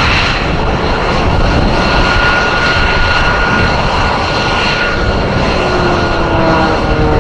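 Aircraft flying past: a loud, steady roar with a thin high whine over it, and tones that slide down in pitch near the end as it goes by.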